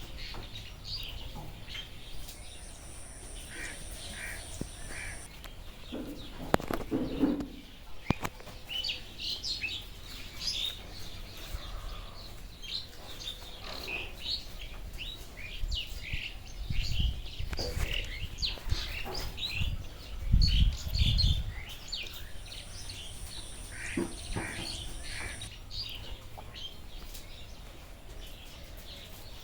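Many birds chirping and calling in short, quick notes, a dense rainforest chorus, with a high thin buzz twice. Loud low thuds come a little past the middle.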